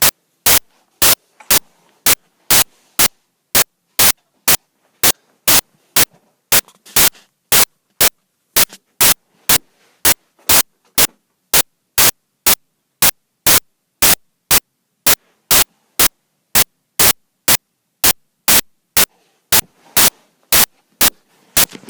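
A steady rhythm of short, loud bursts of static, a little over two a second, with near silence between them.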